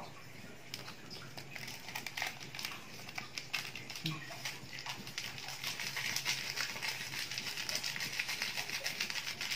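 Cap cay sizzling and bubbling as it reheats in an aluminium wok, a dense crackle that grows louder about halfway through.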